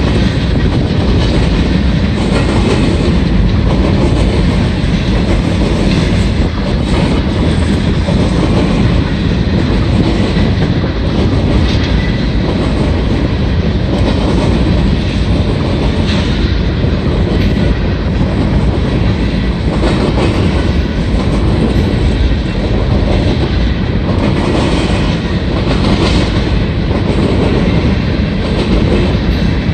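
Freight train of covered hopper cars rolling past: a loud, steady rumble of steel wheels on the rails, with clickety-clack as the wheels cross rail joints.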